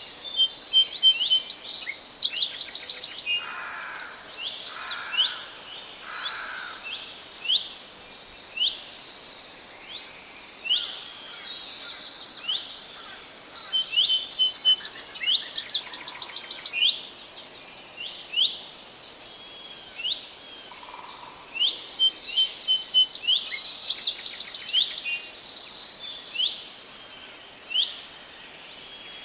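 Several forest songbirds singing together: many quick, overlapping high chirps and trills, with three softer, lower calls in a row a few seconds in.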